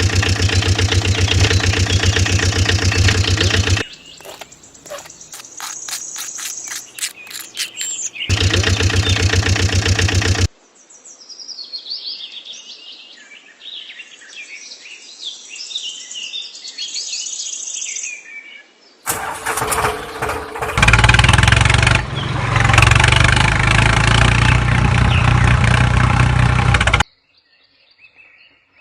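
An engine running steadily in separate stretches with abrupt starts and stops, with a run of rapid clicks in one gap. Birds chirp in between, and faintly near the end.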